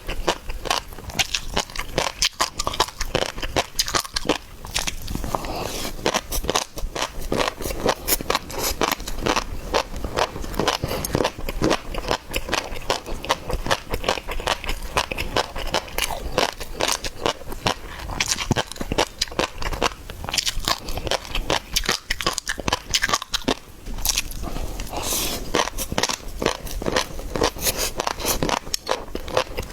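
Close-miked eating of seafood: continuous biting, crunching and chewing, with dense rapid crackling clicks.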